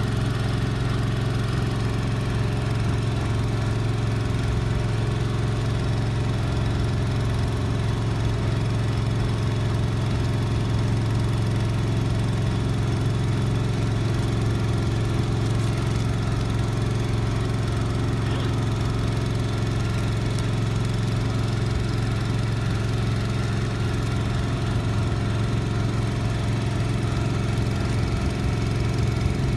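An engine running steadily at a constant speed, a low even hum that does not change pitch.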